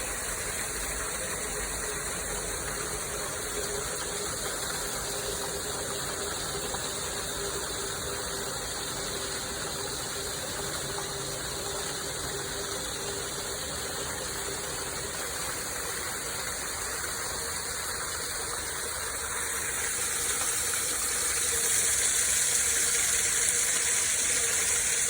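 Park waterfall: steady rushing of falling water, growing louder and hissier about twenty seconds in. A faint steady hum sits underneath for the first half.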